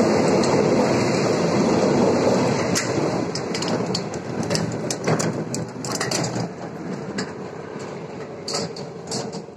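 Passenger train coaches rolling past close by, a loud rumble of steel wheels on the rails that fades after about three seconds as the train draws away, leaving scattered clicks and knocks.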